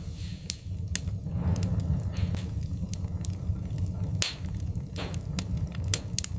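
Wood fire crackling in a fireplace: irregular sharp pops and snaps of burning wood over a steady low rumble of the flames.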